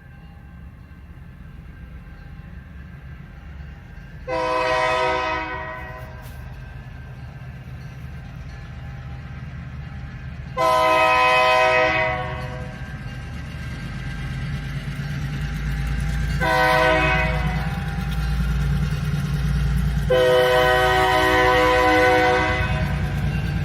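Diesel locomotive horn sounding the grade-crossing signal: two long blasts, a short one, then a long one, each a chord of several notes. Under it, the low rumble of the approaching train grows steadily louder through the second half.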